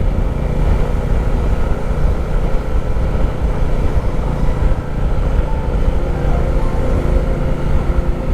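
Motorcycle running steadily at road speed, its engine note under a heavy, continuous low rumble on the rider's microphone.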